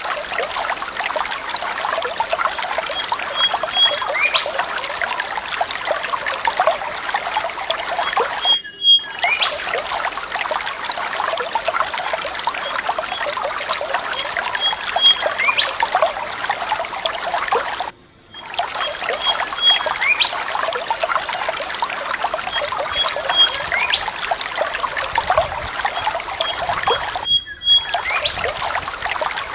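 A bird calls with a single rising whistle every few seconds, along with short high pips, over a steady trickle of water. The sound cuts out briefly three times, about nine seconds apart.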